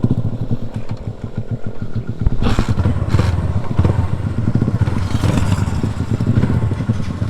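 Motorcycle engine idling with a low pulsing beat, then running harder and louder from about two seconds in.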